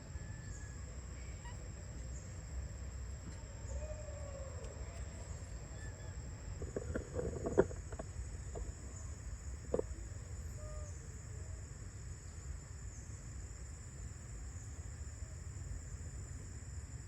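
Outdoor ambience: a steady high insect drone with a low rumble beneath, a few faint animal calls, and a handful of sharp clicks or knocks near the middle, the loudest about halfway through.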